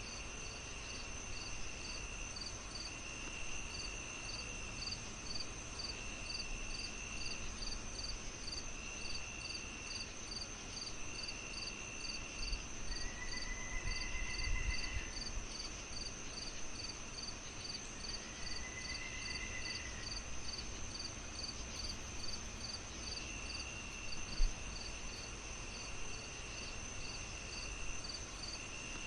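A chorus of crickets and other night insects: a constant high trill, a quick, evenly pulsing chirp, and a lower chirp repeated in phrases of about a second and a half. Two longer arched calls come in about halfway through. Beneath them is the soft noise of a wood fire, with one sharp pop about three-quarters of the way in.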